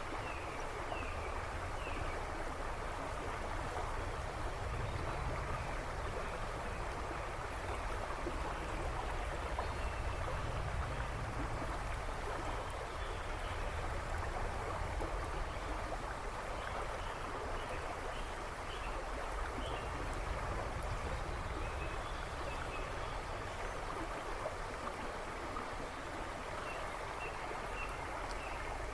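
A river rushing and babbling steadily over stones, a continuous even water noise. Faint short bird chirps come through in the background at the start and again in the second half.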